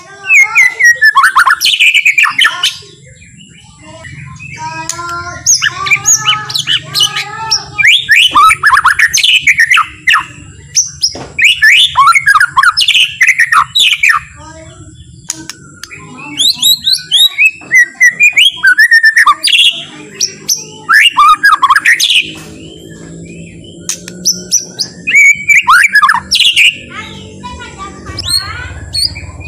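White-rumped shama singing: phrase after phrase of quick, varied whistles and chattering notes, with short pauses between phrases. A faint low hum sits underneath.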